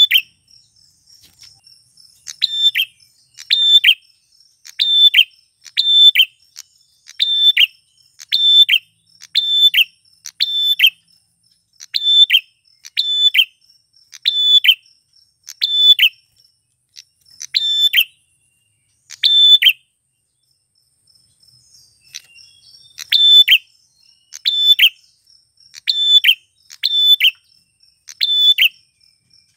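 Male prenjak (a prinia) calling a fast, regular series of sharp, loud chirps, each dropping in pitch, a little more than one a second, with a short pause about two-thirds of the way through. A faint, thin, steady high whine runs beneath.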